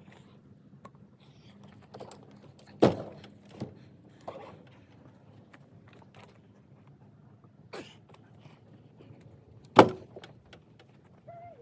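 Pieces of firewood being loaded into the cargo bed of a utility vehicle: scattered wooden knocks and clunks, the loudest about three seconds in and again near the tenth second.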